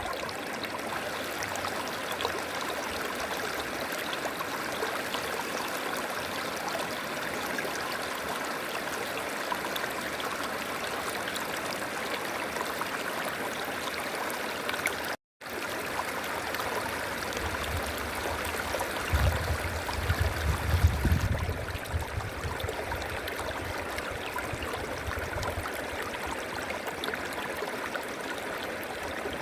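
River water flowing in a steady rush. About fifteen seconds in the sound cuts out for a split second, and a low rumble then swells and fades over several seconds under the water sound.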